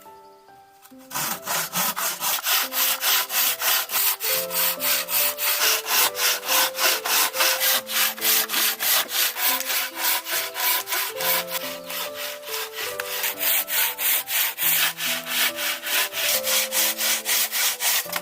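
Hand saw cutting wood in fast, regular back-and-forth strokes, about four or five a second, starting about a second in and stopping abruptly at the end, over soft background music.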